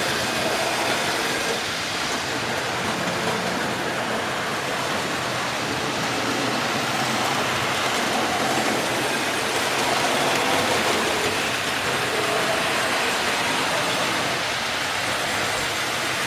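Model trains running around a layout, a steady rolling noise of wheels on the track and small electric locomotive motors.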